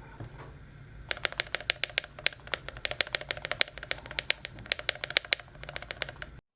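Typing on a Cannonkey Bakeneko 65 aluminum mechanical keyboard with lubed and filmed Tangerine switches, dampened with polyfil: a quick, uneven run of keystrokes starting about a second in and cutting off suddenly near the end.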